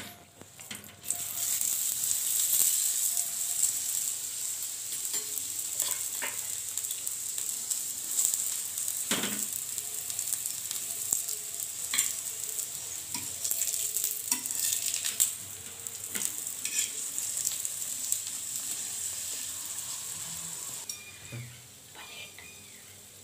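Ghee sizzling under an aloo paratha frying on a flat tawa: a steady high hiss that starts about a second in and weakens near the end, with a few light knocks along the way.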